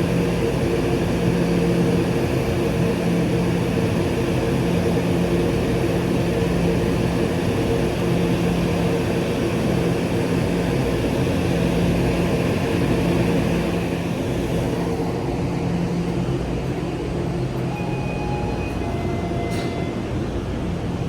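Steady drone of a train: a constant low hum with a rushing noise over it. The rushing eases about two-thirds of the way through, leaving the hum.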